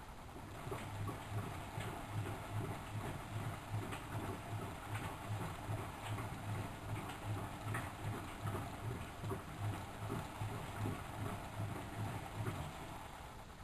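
Miele W763 washing machine drum turning during a wash cycle, its motor hum pulsing about twice a second as the load tumbles, with light clicks and sloshing; it runs for about twelve seconds and then stops near the end.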